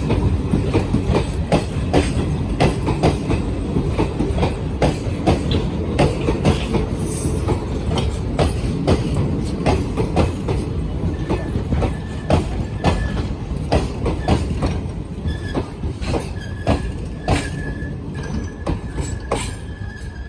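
Express passenger train running past on the track: a heavy steady rumble with sharp clacks of the wheels over rail joints, one or two a second. A faint high wheel squeal comes and goes in the second half, and the sound eases off slightly near the end.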